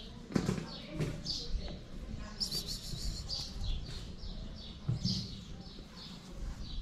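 Small birds chirping: short, high, falling chirps repeated every half second or so.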